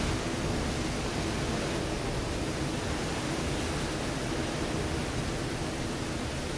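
Ocean surf breaking on a rocky shore: a steady, even wash of water noise with no distinct single crash.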